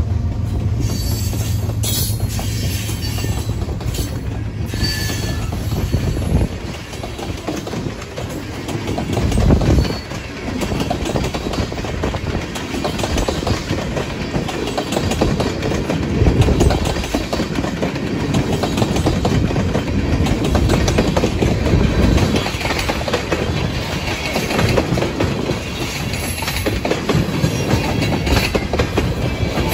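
A BNSF diesel freight train passing close by. For the first six seconds or so the locomotives' engines give a steady low hum. Then a string of tank cars rolls past, its wheels clattering rhythmically over the rail joints.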